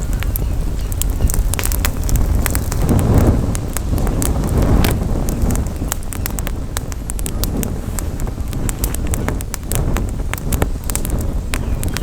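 Wood campfire crackling, with many sharp pops and snaps throughout, over a low rumble of wind on the microphone that swells a few seconds in.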